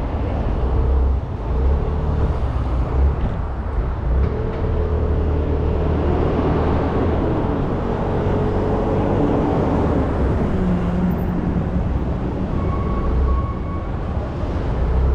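Motorbike engine running steadily under way in city traffic, its pitch drifting up and down a little as the rider changes speed, with wind rushing over the helmet-mounted microphone.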